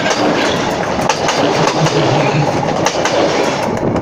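DPL1 diesel multiple unit passing close by: a loud, dense rush of rolling noise with irregular sharp clacks of wheels over the rail joints. It starts to die away near the end.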